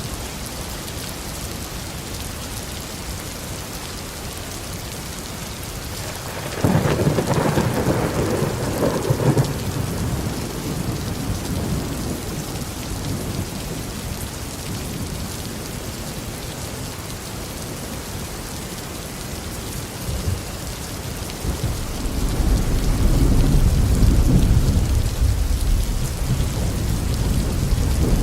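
Steady rain falling throughout, with thunder: a sudden clap about a quarter of the way in that rumbles for about three seconds, then a long low rumble that builds from about two-thirds of the way in and stays loud to the end.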